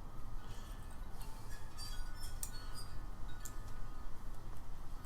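Small metal tools and parts clinking against each other, scattered light taps with brief ringing tones, over a steady low hum.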